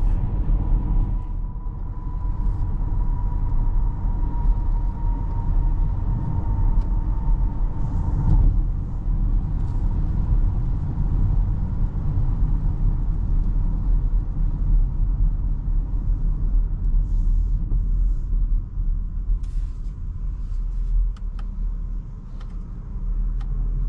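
Steady low rumble of a 2024 Porsche Cayenne on the move, heard from inside the cabin: engine and tyre noise on a wet road. A faint thin steady tone sits over it for roughly the first eight seconds.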